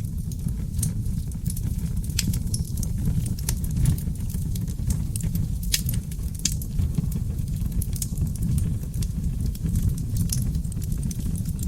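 Wood fire burning in a fireplace: a steady low rumble of flames with irregular sharp crackles and pops from the burning logs, a couple of louder pops about halfway through.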